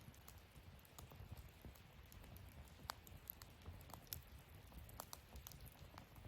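Wood fire in a fire-pit stand crackling faintly, with scattered sharp pops at irregular intervals, the loudest about three seconds in, over a low steady rumble.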